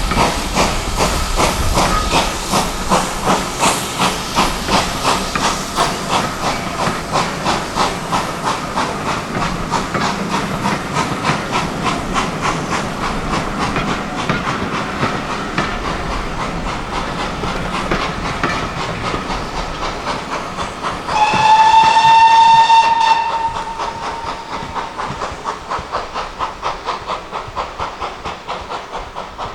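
Steam locomotive working hard, its exhaust beating in a steady rhythm that quickens as it gathers speed, with hissing steam. About two-thirds of the way through it gives one whistle blast of about two seconds that rises slightly at the start. The locomotive is GWR Manor class 4-6-0 No. 7802 Bradley Manor.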